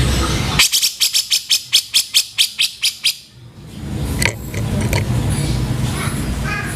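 Cucak jenggot (grey-cheeked bulbul) giving a harsh, rapid rattling call of about fourteen sharp notes, roughly six a second, for about two and a half seconds, then a few scattered short calls over a low background rumble.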